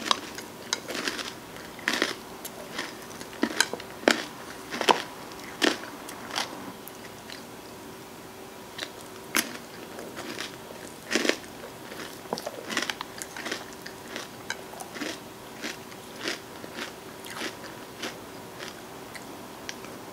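Close-up eating sounds: irregular crunching and chewing of an ice cream sundae with crunchy toppings, mixed with a metal spoon clicking and scraping in a plastic bowl.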